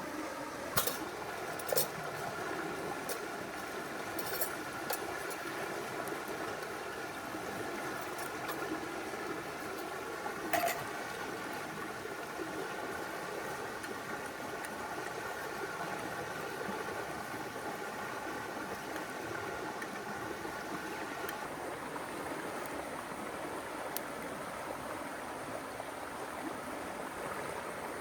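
Steady rush of a river, with a few sharp crackles in the first eleven seconds, the loudest about ten and a half seconds in. A faint steady hum under the water stops about two-thirds of the way through.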